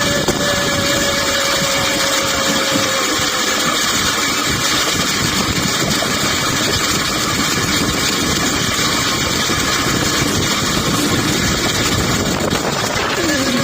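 Rail bike rolling fast downhill on steel rails, its wheels giving a steady, loud rumble and rattle over the track.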